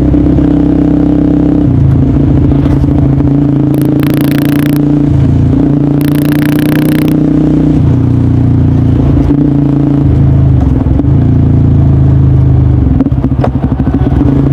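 Honda CBR150R's single-cylinder engine running through an aftermarket DST exhaust while riding, its note holding mostly steady with small changes in throttle every few seconds. There are two brief rushes of hiss, about four and six seconds in.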